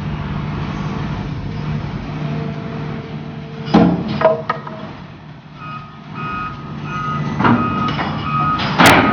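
A heavy diesel engine running steadily, with a few sharp metal clanks a little under halfway through. From about halfway on, a reversing alarm beeps repeatedly.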